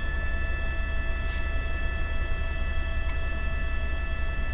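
News helicopter heard from inside the cabin: a steady low rotor and engine rumble with a constant high turbine whine.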